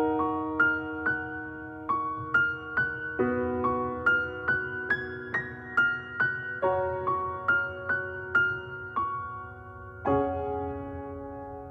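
Background music: a piano intro playing soft sustained chords with picked single notes over them, about two notes a second.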